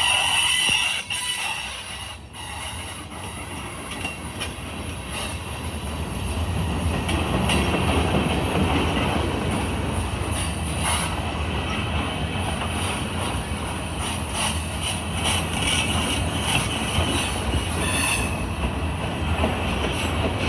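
Cars of a freight train rolling past on the rails: steady wheel and rail noise with a few clicks and some wheel squeal. The noise drops briefly about a second in, then builds back up.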